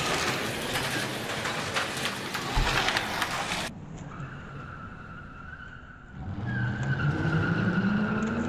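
Slot cars' small electric motors whining around the track with a dense clicking hiss. After an abrupt cut near the middle, a steadier motor whine comes in, rising in pitch and growing louder.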